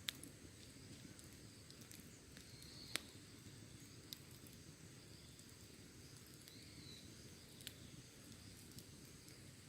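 Wood campfire burning quietly with a few sharp crackling pops, the strongest right at the start and about three seconds in. A faint steady high insect trill runs behind it.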